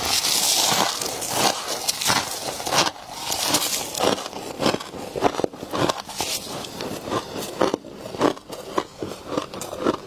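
Freezer frost crunching and crackling in a quick, irregular run of sharp crunches, opening with a brief hiss.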